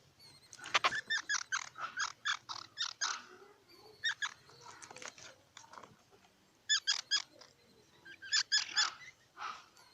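Squirrel calling in quick runs of short, sharp calls, several a second, in about four bursts with short pauses between.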